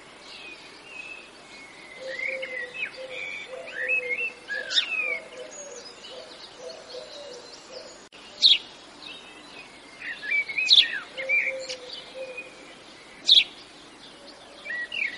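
Birds chirping and calling: scattered short chirps and quick falling whistled notes, with a few louder sharp chirps spaced a couple of seconds apart.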